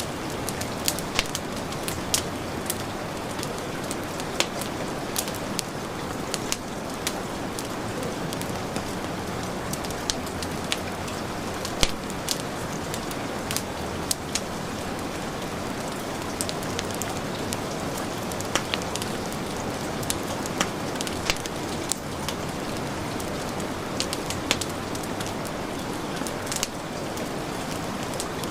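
Steady heavy rain mixed with a wood fire crackling, with sharp irregular pops and snaps over the hiss of the rain.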